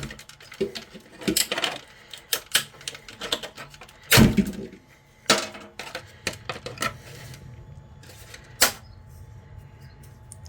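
Small pliers snapping 3D-printed plastic support material away from small printed pieces: an irregular run of sharp clicks and cracks, the loudest about four seconds in.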